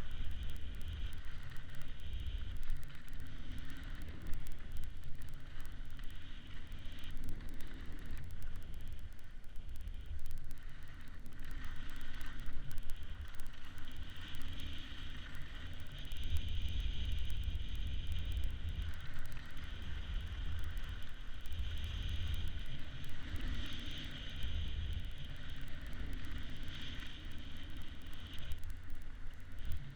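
Wind buffeting the microphone as a low, uneven rumble, with a steady higher hiss that swells and fades over it.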